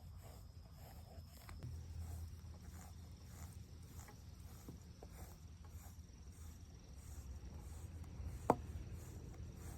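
Faint, rhythmic strokes of a brush through a cat's fur, about two to three a second, over a low steady rumble, with one sharp click near the end.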